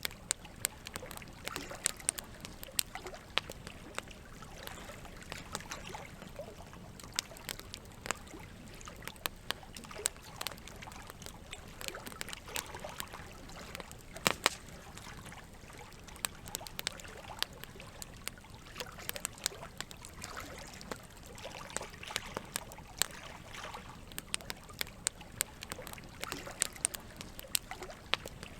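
Campfire crackling, with sharp pops at irregular intervals, the loudest about halfway through, over a steady wash of flowing water.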